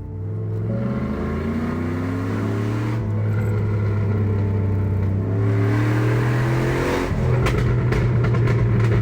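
A motor vehicle engine accelerating through the gears: its pitch rises, falls back at each shift about three and five seconds in and again near seven seconds, then climbs again while the sound slowly grows louder.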